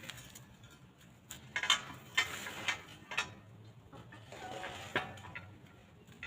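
Chickens pecking, beaks striking with a series of sharp, irregular taps, about seven in a few seconds.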